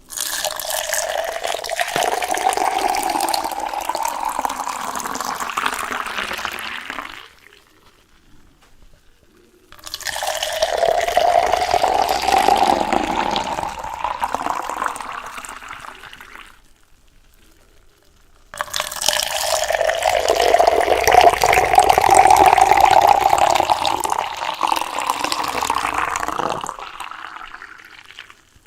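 Water being poured into a container three times, each pour lasting about seven seconds with short silent pauses between, its tone rising slightly during each pour.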